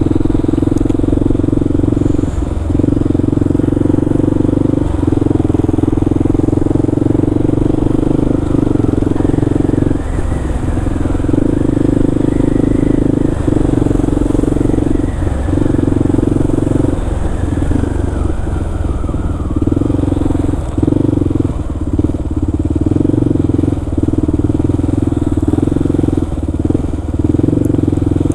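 Kawasaki KLR650's single-cylinder engine running steadily under way, its note dipping briefly every few seconds as the throttle is eased or gears change.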